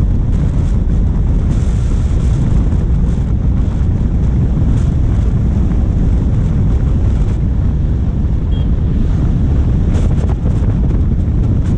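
Steady low rumble of wind buffeting a bonnet-mounted action camera's microphone while a diesel vehicle drives along, with a few faint clicks scattered through it.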